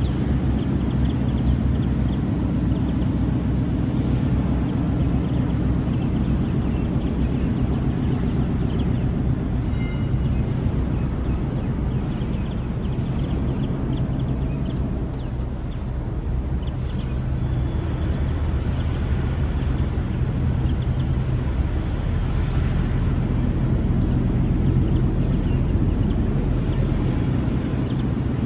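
Japanese white-eyes calling in short, high chirps, in bursts through the middle and again near the end, over a steady low rumble that is louder than the birds.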